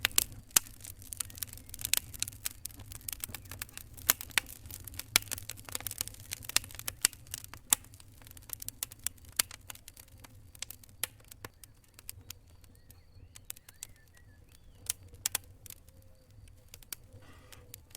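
A fire crackling: irregular sharp pops and snaps, thick for the first half and sparser later, over a low steady rumble.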